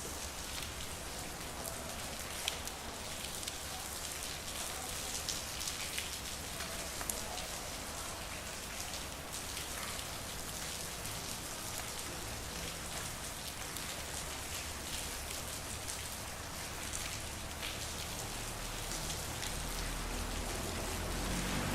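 Steady rain falling on a street, with individual drops ticking and pattering on hard surfaces. Near the end a low rumble builds and the sound grows louder.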